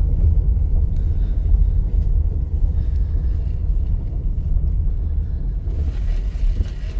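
Car rolling down a bumpy gravel road: a steady low rumble of the tyres and car on the uneven surface.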